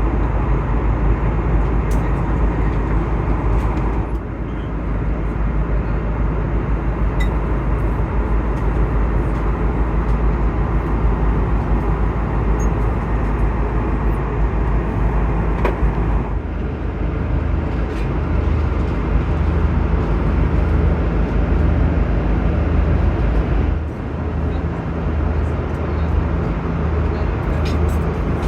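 Steady airliner cabin noise inside an Airbus A330-200: a dense rumble of engines and airflow, heaviest in the low end. It changes character abruptly three times.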